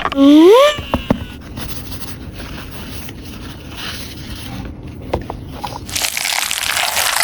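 Toy packaging and small plastic toy pieces being handled. A short rising squeaky sound opens it, then come a couple of sharp clicks, a stretch of quiet scraping, and louder rustling near the end.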